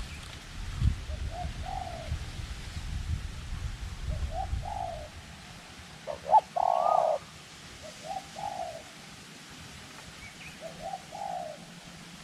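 Spotted dove cooing: about five short two-note coo phrases roughly every two seconds, the one about halfway through the loudest. Wind rumbles on the microphone through the first half.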